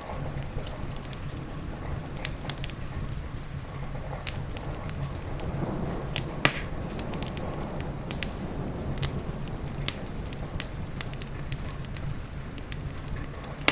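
Crackling wood fire: sharp, irregular pops and snaps, one louder pop about halfway through, over a steady low rumble and hiss of rain.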